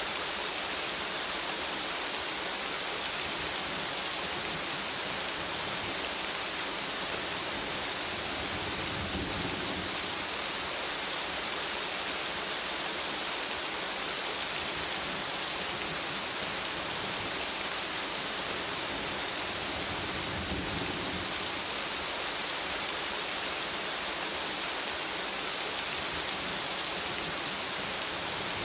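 Steady rain falling in a forest, an even hiss of many drops. Two brief low rumbles come through, one about a third of the way in and one about two-thirds through.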